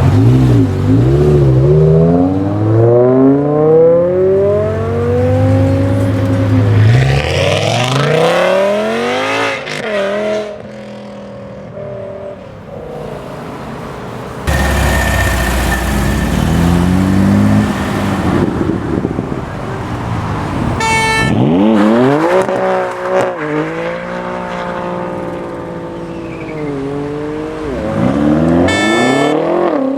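Several modified BMW M cars accelerating hard one after another, their engines revving up through the gears in repeated rising climbs and dropping at each shift as they pass. Two brief sharp high sounds come in the second half.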